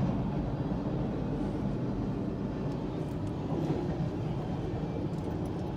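Steady low rumble of vehicle noise with no distinct events.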